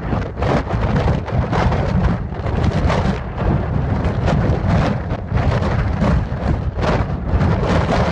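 Storm noise: heavy rain and wind buffeting the microphone, a loud, rough, continuous rumble that surges irregularly.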